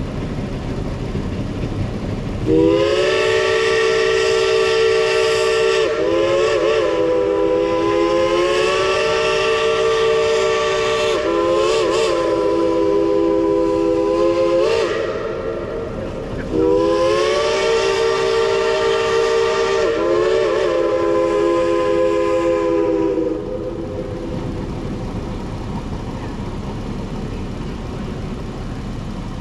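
Steam locomotive's chime whistle blowing two long blasts, each a chord of several notes, the second starting about two seconds after the first ends, with brief wavers in pitch. A steady hiss of steam runs underneath.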